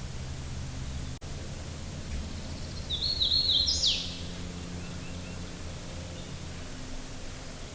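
A songbird sings one short phrase about three seconds in: a few quick high notes stepping upward, ending in a falling sweep. A steady outdoor background hum runs underneath.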